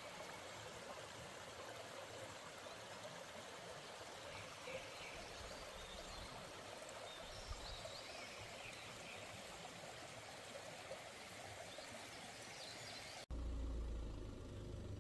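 Valley stream water flowing, a steady rush. About 13 s in it cuts off suddenly to a louder low rumble.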